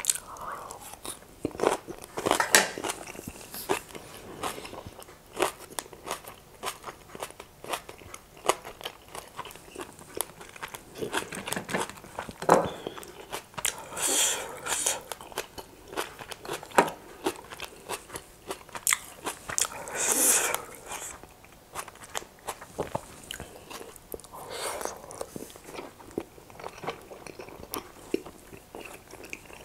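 Close-miked chewing of a mouthful of spicy chicken keema noodles with greens: a steady run of small mouth clicks, with a few louder bursts about halfway through and again about two-thirds of the way in.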